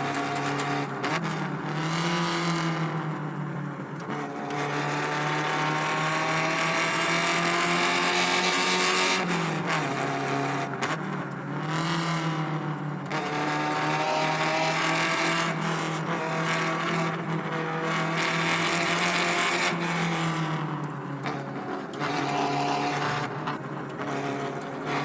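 Alfa Romeo Spider 105's freshly rebuilt 1750 twin-cam four-cylinder engine pulling under acceleration. Its pitch climbs steadily and then drops back several times, as at gear changes.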